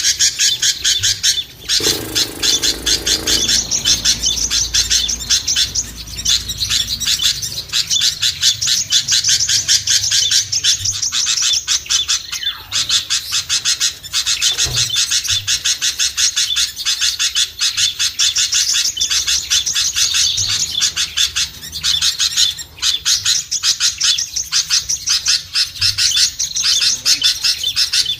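Dense, rapid chirping and twittering of small songbirds, a busy mix of calls with no break, as used in a lure recording (suara pikat) to draw small birds down.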